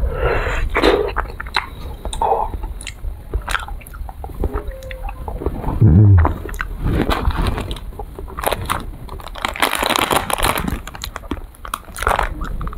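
Biting into and chewing a vanilla ice cream bar on a stick, close to the microphone, with repeated small crunches and wet mouth sounds.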